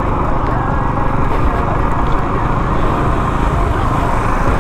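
2022 Honda CRF450RL's single-cylinder four-stroke engine running steadily while the bike creeps along in traffic, as a loud, even rumble with no revs or changes.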